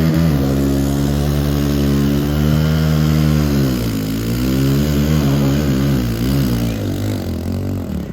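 Small dirt bike engine running with steady revs, then dipping and blipped up and down unevenly by the throttle, falling away right at the end.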